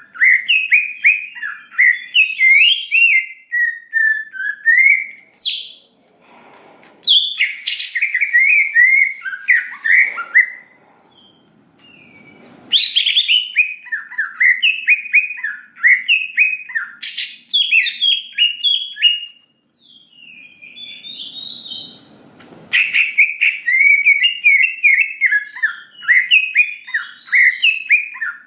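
Cucak ijo (green leafbird) singing in long, rapid phrases of varied chirps and whistles, with a few sharp, piercing notes, broken by short pauses.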